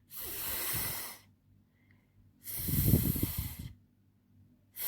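A woman's voice making the long unvoiced "fff" sound, the phonics sound of the letter f: air hissing out between teeth and lower lip, like an inflatable fish deflating. It comes twice, each about a second long, and a third begins at the very end.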